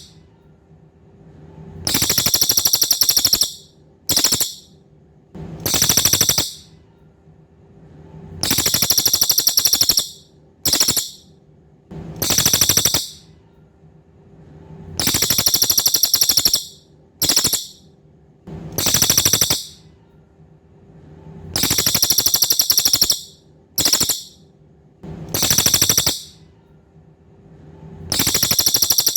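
Cililin songbird singing: loud, very high-pitched rapid trills in phrases of about a second, repeated every two to three seconds, with a few shorter bursts in between.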